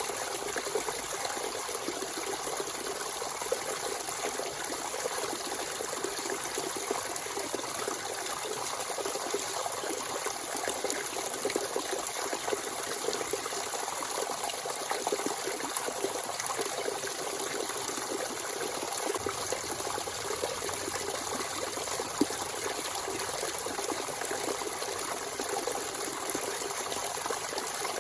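Natural spring water flowing and trickling steadily, a continuous splashing with small drips and plops.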